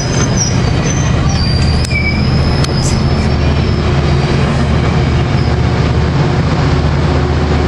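Metrolink commuter train pulling out past, with the steady low rumble of its EMD F59PHI diesel locomotives. High wheel squeal sounds over the first few seconds, along with a few clicks from the wheels on the rails.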